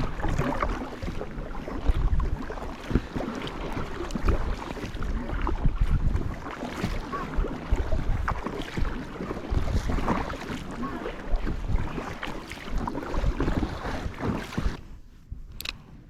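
Water splashing and knocking against a kayak, with wind buffeting the microphone; it cuts off suddenly near the end.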